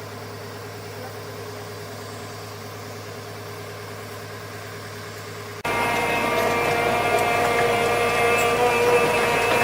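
Steady engine-like drone, like a motor idling. About halfway through it cuts abruptly to a much louder, steady running sound with several held tones.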